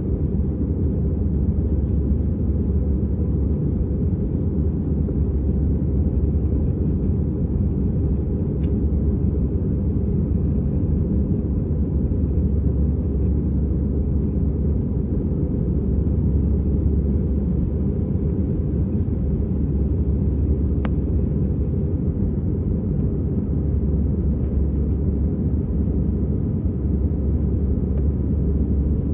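Steady low rumble of an Airbus A320 airliner's engines and airflow, heard from inside the passenger cabin, with a faint steady tone and a couple of faint clicks.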